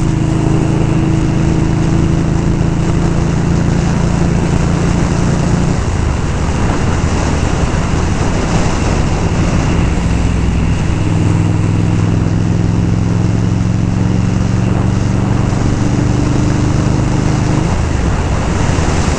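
Indian Scout's V-twin engine running at a steady cruise under heavy wind rush on the rider's microphone. About six seconds in the engine note breaks up for several seconds, then settles into a steady note again.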